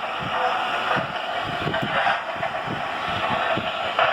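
Model steam locomotive running on the layout, its onboard sound system playing steady steam chuffing, about three chuffs a second.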